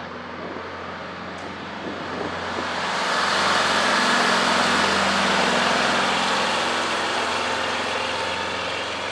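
Diesel semi truck engine running as the truck passes by, growing louder to a peak about halfway through and then slowly fading.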